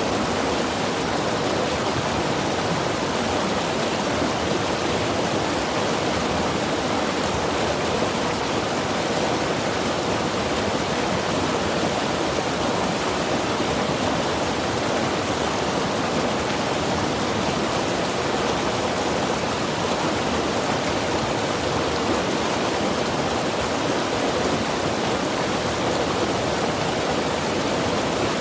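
Mountain river rushing steadily over rocks, a constant even wash of water noise.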